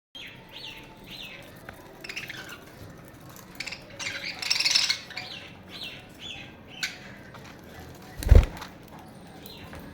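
Small pet parrots chirping, a steady run of short, falling chirps. There is a rustling burst about four to five seconds in and a single loud low thump a little after eight seconds.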